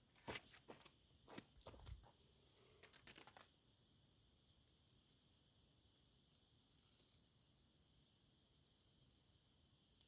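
Near silence: a few faint knocks and rustles in the first three seconds or so, then only a faint, steady, high-pitched insect drone.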